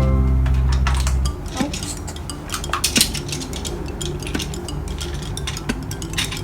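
Music with a deep bass cuts off about a second in, followed by a run of light clicks and clinks of small hard plastic toy pieces being handled and knocked together.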